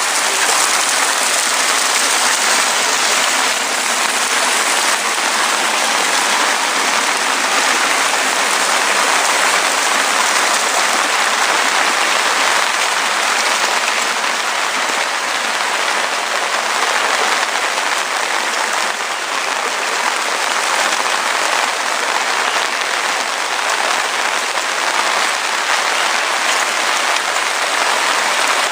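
Steady, heavy rain falling, an even unbroken hiss with no let-up.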